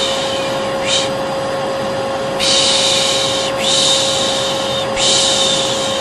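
Hair dryer running with a steady hum under long, continuous 'shh' shushing, broken by short breaks every second or so: white noise for soothing a colicky baby.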